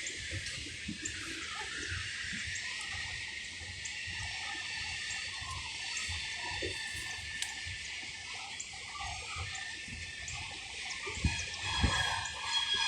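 Steady rushing of flowing water from a creek or river, with scattered faint knocks. Near the end it grows louder as an approaching train starts to be heard.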